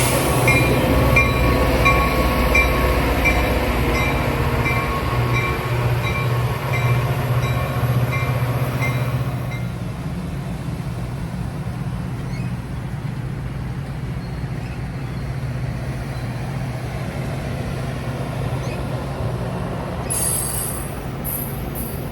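A train with its bell ringing about once every two-thirds of a second. The bell stops a little under halfway through, while the train's low rumble goes on. Short high-pitched squeals come near the end.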